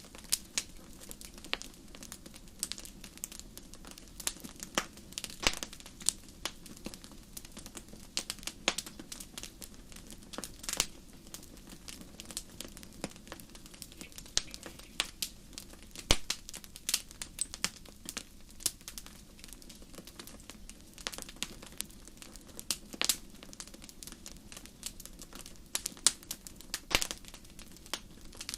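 Wood fire in a fireplace crackling, with irregular sharp pops and snaps several times a second over a steady low rush of the flames.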